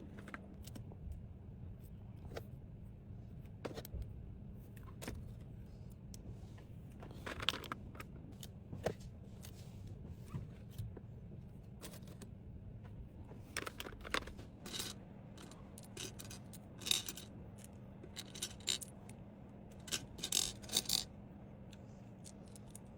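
Small hard items clicking and clattering against one another with occasional scrapes, as they are handled and dropped into a container. The clicks come more often in the second half.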